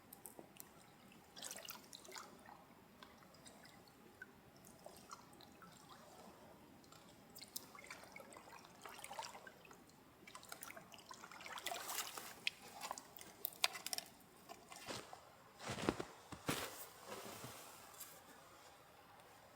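Quiet, scattered small clicks, taps and rustles, with a louder spell of rustling about three-quarters of the way through.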